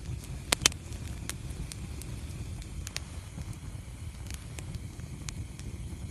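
Wood fire in a fireplace crackling: scattered sharp pops over a low steady rumble, with two loud pops in quick succession just over half a second in.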